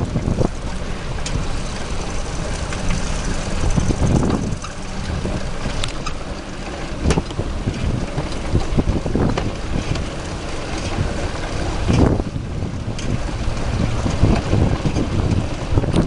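Wind buffeting the microphone of a handlebar-mounted camera on a moving bicycle, a gusty low rumble, with a few sharp knocks from the bike and mount over bumps.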